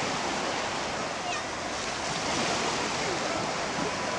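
Sea waves washing steadily onto the beach, with faint distant voices.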